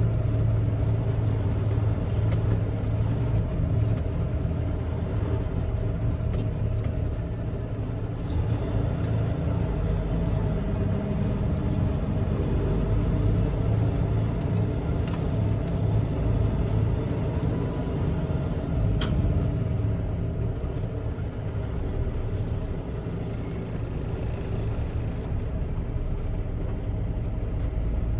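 Semi truck's diesel engine running, heard from inside the cab as a steady low drone with an even hum.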